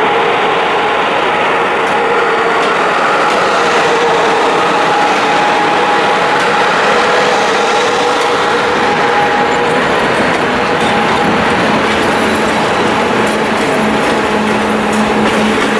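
Train moving through the station at close range: a loud, steady rolling noise with a few steady tones, and a lower hum joining about eleven seconds in.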